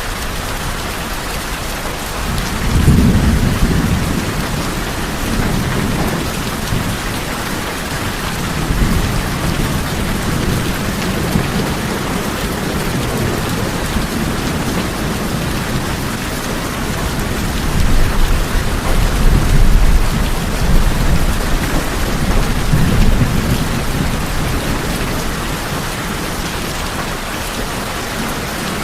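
Steady rain on tin roofs, an even hiss of drops on metal, with several low rumbles of thunder. The rumbles are loudest about three seconds in and again from about eighteen to twenty-one seconds.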